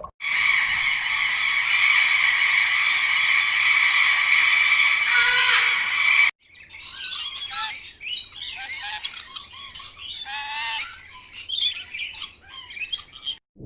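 Birds calling: a dense, unbroken chorus of high calls for about six seconds, then, after an abrupt cut, separate chirps and squawks that sweep up and down in pitch.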